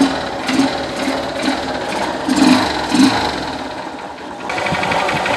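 Honda CG Fan 125's single-cylinder four-stroke engine running at idle just after being started, with freshly adjusted valves. The exhaust-valve tapping that was there before is gone, and the engine runs quietly.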